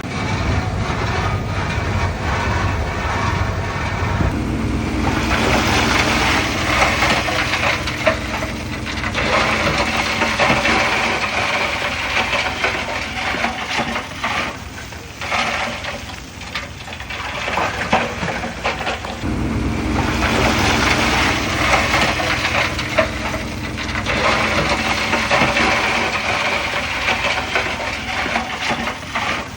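Komatsu D31P crawler bulldozer working, its diesel engine running under varying load with rattling and crunching from tracks and soil. The engine note strengthens twice, a few seconds in and again past halfway.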